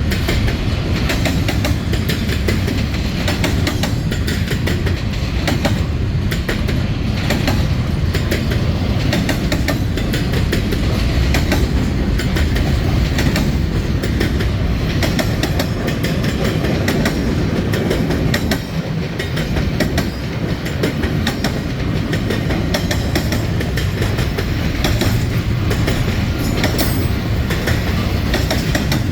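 Norfolk Southern train rolling past at close range: a steady heavy rumble with wheels clicking over rail joints.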